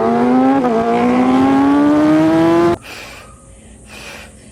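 Motorcycle engine accelerating, its pitch rising steadily, with a brief drop as it shifts up about two-thirds of a second in. It cuts off abruptly a little before three seconds, leaving only faint noise.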